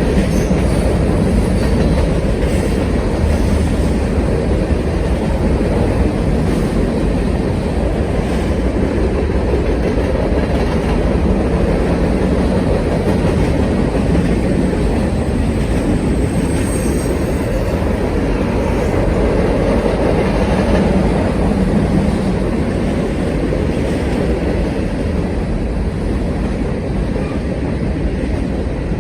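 Norfolk Southern freight train rolling past, a steady loud rumble of steel wheels on the rails with clickety-clack over the rail joints, and a brief faint high wheel squeal about halfway through.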